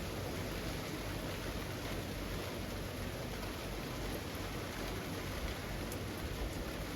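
Steady rain falling on leaves, an even hiss with faint scattered drip ticks.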